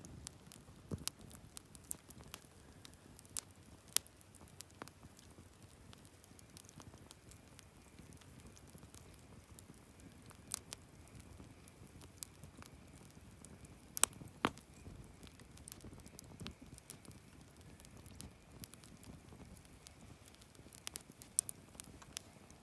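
Wood campfire crackling: irregular sharp pops and snaps over a soft hiss of flames, the loudest pops about fourteen seconds in.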